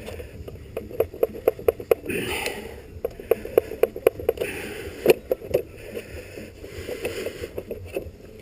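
Motorcycle bodywork panels being worked into place by hand: a run of irregular clicks and knocks with some scraping as the pieces are pushed and shifted against each other.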